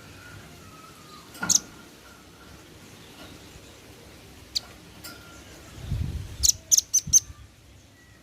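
Male velvet-fronted nuthatch giving sharp, high chip calls: a loud one about a second and a half in, a fainter one midway, then a quick run of four near the end. A low muffled thud comes just before the run.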